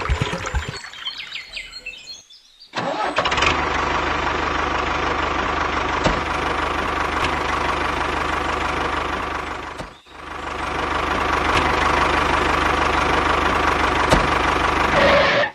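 Small electric motor of a homemade mini tractor running with a steady whine. It starts suddenly, cuts out for a moment about two-thirds of the way through, spins back up and stops near the end.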